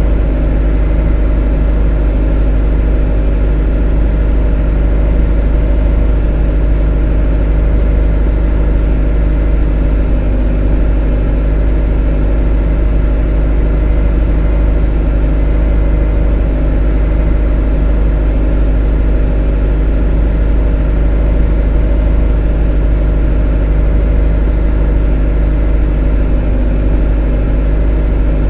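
A motor running with a steady, unchanging drone: a strong low hum with many steady tones layered above it, nothing rising or falling.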